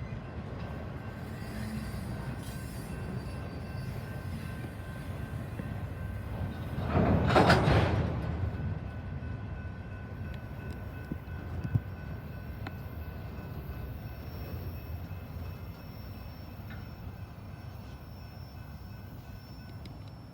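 Freight train cars rolling past on the rails in a steady low rumble, with a louder rushing surge about seven seconds in and a sharp knock a few seconds later. The rumble slowly fades toward the end.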